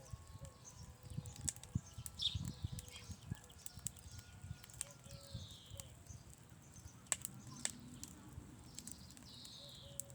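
Footsteps walking over the ground with irregular thuds and a few sharp cracks, while a bird gives a falling call twice.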